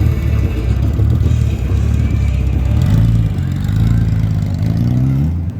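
Motorcycle engine running, then revving up with a rising pitch near the end before it drops away suddenly.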